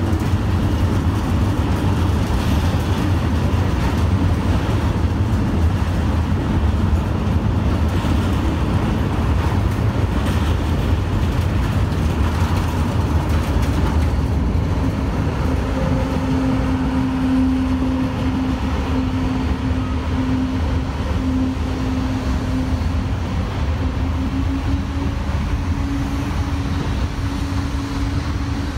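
Train running in a railway station: a steady low rumble throughout, with a steady hum coming in about halfway through.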